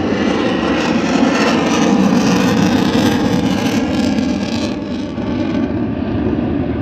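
Sukhoi Su-30 fighter's twin jet engines during a slow flyby: a dense, steady rush of jet noise that swells about two seconds in and eases a little near the end.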